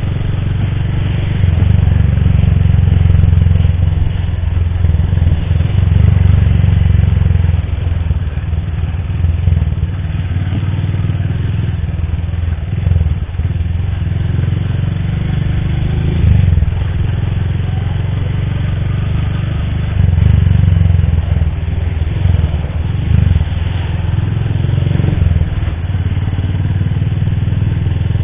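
Motorcycle engine running while being ridden, with a heavy low rumble, its loudness rising and falling several times as the throttle changes.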